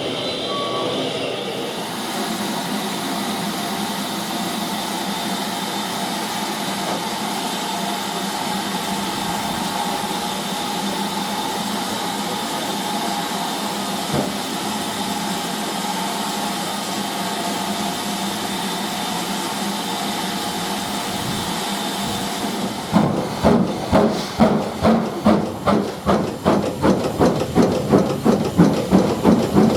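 Steam locomotive standing with steam hissing steadily, then starting away about three-quarters of the way through, its exhaust beats quickening as it gathers speed.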